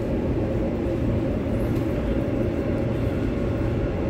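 Transperth B-series electric multiple unit running on the line, heard from inside the carriage: a steady low rumble of wheels and running gear with an even hum held over it.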